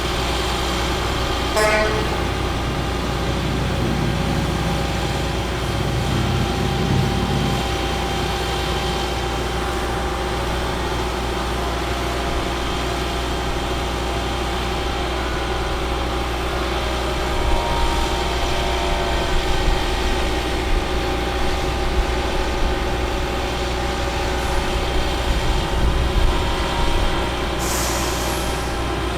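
Caterpillar C7 diesel engine of a Ford F750 bucket truck running steadily. A brief tone sounds about two seconds in, and a short hiss comes near the end.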